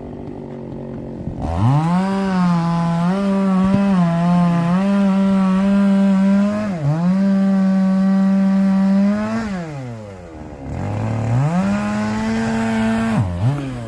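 Small two-stroke chainsaw engine revved to full throttle about a second and a half in, holding a high, steady pitch with brief small dips. It falls back toward idle just before the ten-second mark, then revs up again and drops off just before the end.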